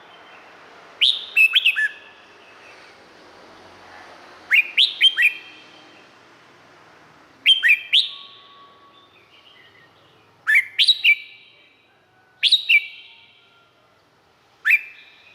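Red-whiskered bulbul singing: six short phrases of quick, sharply falling whistled notes, one every two to three seconds.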